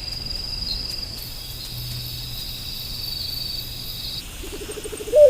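Night insects, crickets, chirring steadily at a high pitch, stopping about four seconds in. Near the end comes a short, loud animal call, a rapid pulsed sound that rises then falls.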